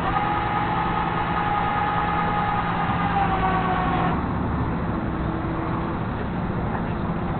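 Flatbed tow truck's hydraulics whining under load as the boat is pulled onto the bed, a steady several-toned whine that sags slightly in pitch and cuts off about four seconds in, over the truck's engine running steadily.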